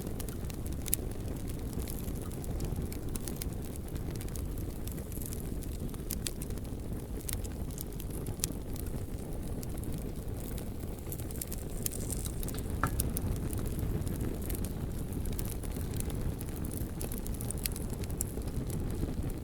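Campfire burning: scattered sharp crackles and pops of burning wood over a steady low rushing noise.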